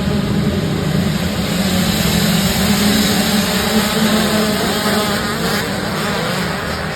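Motocross dirt bike engines running on the track, their buzzing notes rising and falling as riders work the throttle, easing off slightly near the end.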